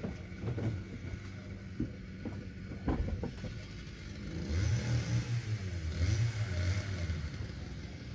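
A few sharp clicks and knocks, then a road vehicle passing by, swelling and fading over about three seconds in the second half.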